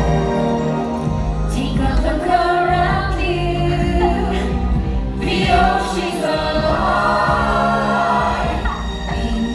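A group of voices singing a show tune together over loud accompanying music.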